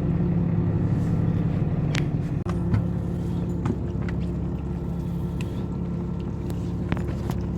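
Boat engine running steadily, with a low hum. A few light clicks sound over it.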